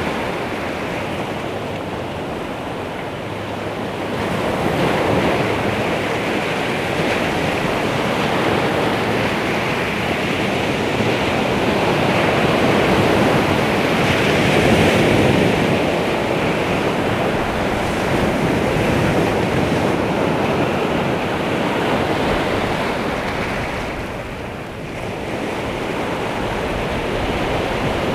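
Baltic Sea waves washing onto the shore in a continuous rush that swells and eases, dipping briefly near the end.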